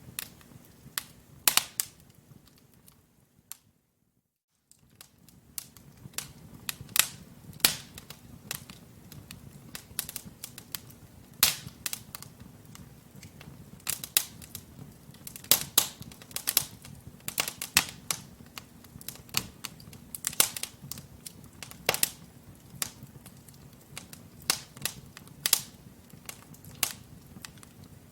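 Wood fire crackling in a fireplace: burning logs give off irregular sharp pops and snaps, some loud, over a soft low rush of flame. The sound cuts out for about a second around four seconds in, then the crackling resumes.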